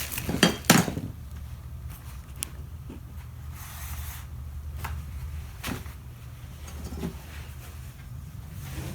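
Light knocks and clicks of a piece of stained glass being handled and set down, the two loudest about half a second in, then scattered lighter taps, over a low steady hum.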